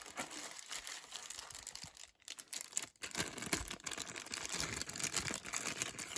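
Packaging rustling and crinkling as items are lifted out of a subscription box, a dense run of fine crackles with two brief pauses.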